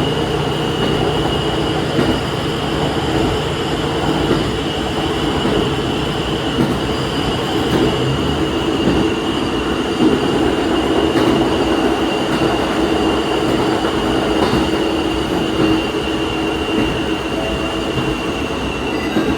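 Diesel railcar running along the line, heard from the front of the train: a steady drone of engine and wheels on rail, with a steady high-pitched whine over it and an occasional light knock.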